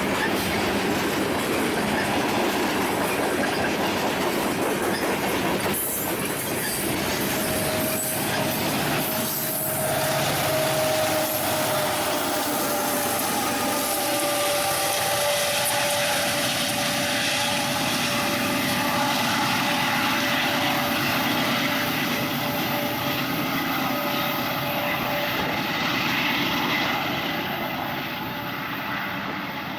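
Railroad cars rolling past, wheels clattering on the rails, with a thin steady wheel squeal setting in about eight seconds in and holding over the rest.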